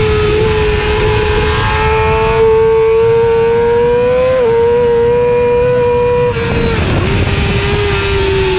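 A 2009 Yamaha YZF-R6's 600 cc inline-four racing engine screaming at high revs under full throttle, heard onboard. The pitch climbs slowly, drops sharply for a moment about four and a half seconds in, then dips again about six and a half seconds in and falls slowly.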